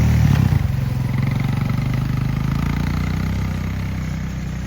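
A vehicle engine running steadily, gradually getting a little quieter.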